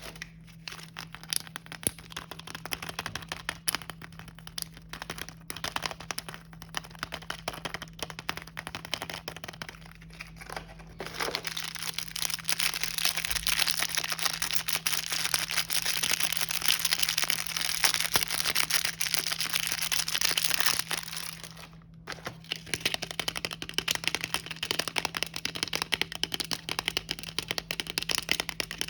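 Plastic snack packaging being handled and torn open, crinkling and crackling, much louder for about ten seconds in the middle.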